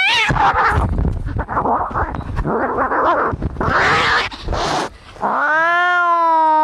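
Cats fighting: a short rising yowl, then about five seconds of harsh, noisy hissing and scuffling, then a long, steady, drawn-out yowl that begins about five seconds in.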